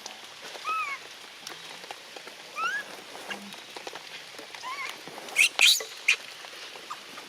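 Short, thin, squeaky calls from a young animal, about half a dozen of them rising and falling in pitch, with a louder cluster of shrill squeals about five and a half seconds in, over a steady background hiss.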